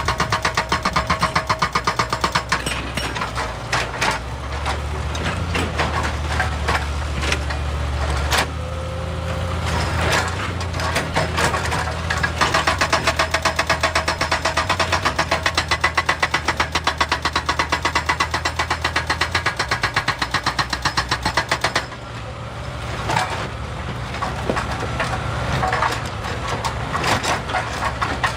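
Excavator working: its diesel engine runs with a fast, evenly spaced pounding that stops about three-quarters of the way through, leaving rougher, irregular knocks over the engine.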